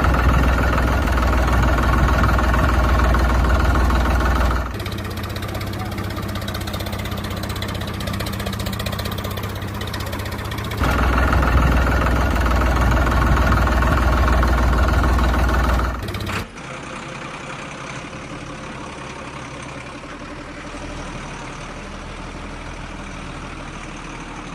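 Steady engine running sound, louder for the first four or five seconds and again from about eleven to sixteen seconds in, switching abruptly between the louder and quieter stretches.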